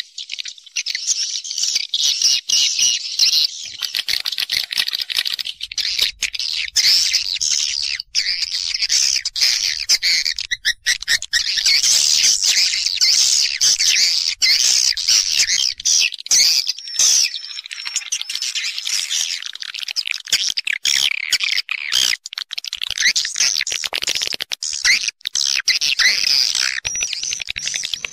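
Dense chorus of edible-nest swiftlets twittering and chirping, a continuous high-pitched chatter broken by many brief gaps. This is a swiftlet roosting call, the kind played to lure the birds into nesting houses.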